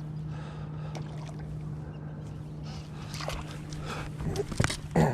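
A steady low hum on the bass boat while a hooked bass is fought to the boat. Sharp knocks and splashing come near the end as the fish is landed.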